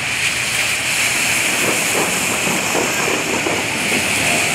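Rain hissing steadily on wet pavement.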